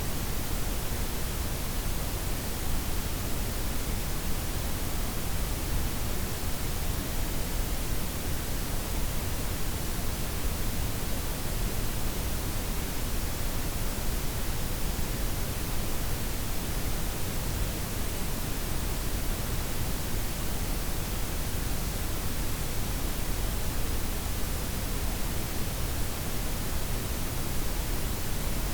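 Blended white, pink and brown noise: a steady, even hiss with a deep rumble underneath, unchanging throughout.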